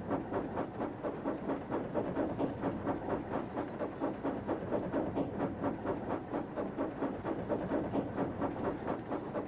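Steam train running, with a steady rhythmic beat of about three to four pulses a second and a hiss.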